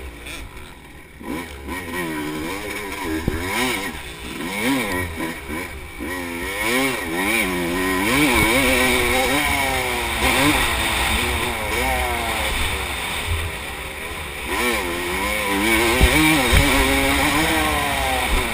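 Suzuki dirt bike engine revving up and down again and again as it is ridden along a dirt track, with the throttle opening and closing. It is quieter for the first couple of seconds, then louder.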